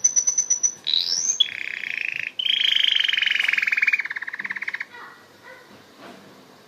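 Domestic canary singing. It opens with a quick run of high repeated notes and a downward-sweeping note, then goes into fast rolling trills, the longest lasting about two and a half seconds, and the song stops about five seconds in.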